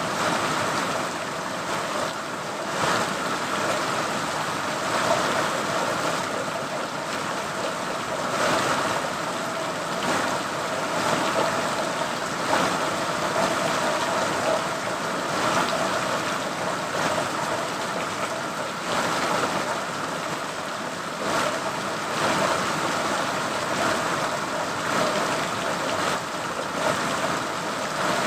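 Steady rain falling, a continuous even hiss that swells slightly every couple of seconds.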